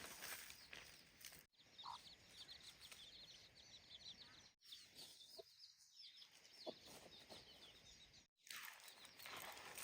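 Faint outdoor ambience with small birds chirping in quick high runs, and chickens clucking faintly. It drops out abruptly three times.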